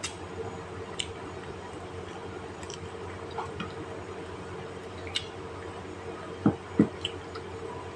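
Eating sounds at the table: scattered small clicks and smacks of chewing, with two louder dull knocks about six and a half seconds in, over a steady low hum.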